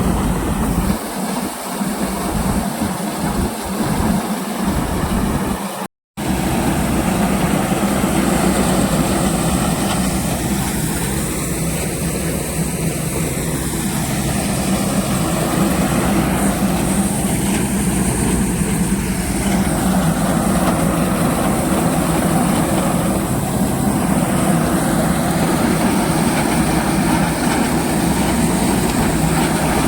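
Tractor-driven wheat thresher running steadily under load, tractor engine and threshing drum together making a loud continuous mechanical roar while threshing wheat. A brief dropout about six seconds in.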